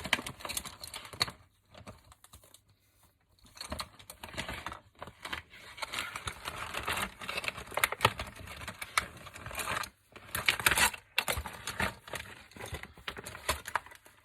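Small clicks, taps and rustles of craft supplies being picked up and handled, coming thick and irregular, with a short lull about two seconds in.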